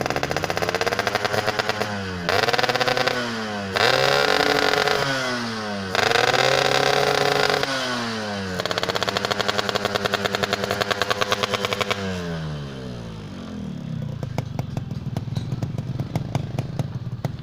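Two-stroke motorcycle engine revved through a newly fitted expansion-chamber exhaust with a reworked header neck. It rises to three hard high-revving blasts, holds a lower rev, then falls back to a rattly idle about three-quarters of the way through. It picks up cleanly each time with no sputtering.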